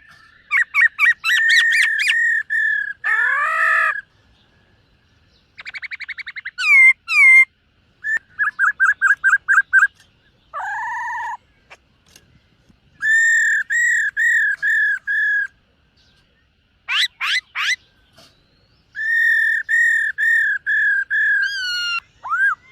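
Black-throated laughingthrush singing: loud runs of six to eight evenly repeated whistled notes, with rapid trills, quick sliding whistles and a lower held note between phrases that are spaced by pauses of about a second.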